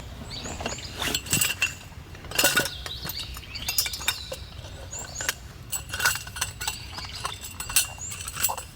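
Irregular light metallic clinks and taps of camping gear being handled, some with a brief ring.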